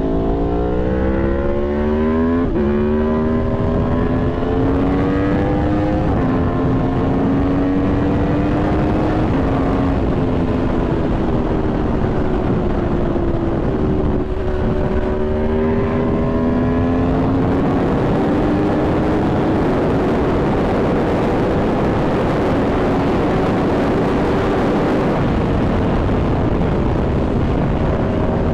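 Aprilia Tuono V4's V4 engine accelerating through the gears, its pitch climbing and dropping sharply at upshifts about two and a half and six seconds in. Midway it eases off, then pulls again and settles to a steady speed under heavy wind rush.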